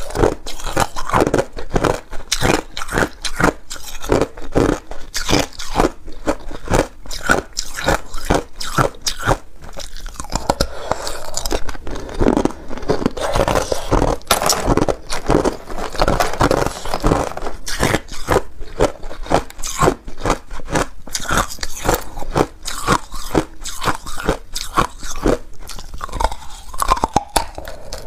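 Ice being bitten and chewed close to the microphone: a rapid, continuous series of loud, sharp crunches.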